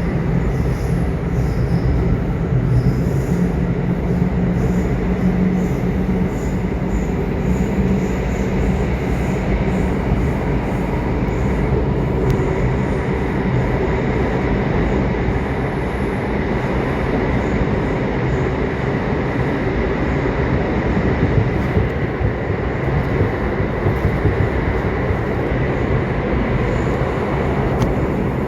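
Subway train running: a steady rumble and rolling noise of the wheels on the track, with a thin steady whine above it.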